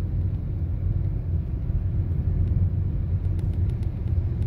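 Toyota Corolla's steady low road and engine rumble while driving, heard inside the cabin, with a few faint ticks a little after three seconds in.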